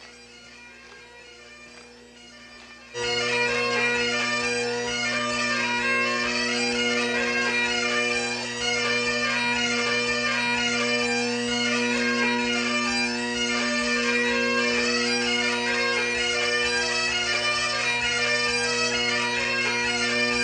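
Bagpipes: faint at first, then about three seconds in the pipes come in loud, playing a tune over steady drones.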